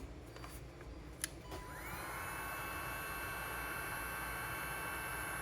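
Handheld heat gun switched on about a second and a half in, its fan motor whining up in pitch and then running steadily.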